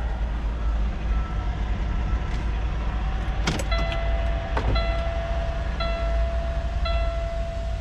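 Heavy truck's diesel engine idling with a steady low rumble. A little over three seconds in, a click is followed by a warning beep that repeats about once a second.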